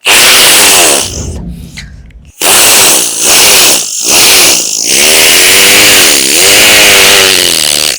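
A man imitating with his voice a motorcycle with a burst silencer being kick-started. There is a loud sputtering burst that trails off into crackling, then three short revs and a longer rev with a wavering pitch near the end.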